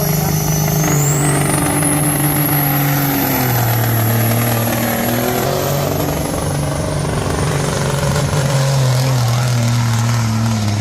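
Pulling truck's engine running hard and loud, with a high whistle that climbs over the first two seconds and then holds. The engine's pitch eases down a little partway through.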